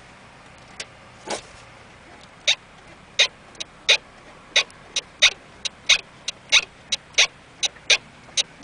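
Front strut bearing of a 2003 Volvo S60 D5 popping sharply as the steering is turned: a few scattered pops at first, then a steady run of about two to three a second. This is the sign of a failed strut bearing (top mount).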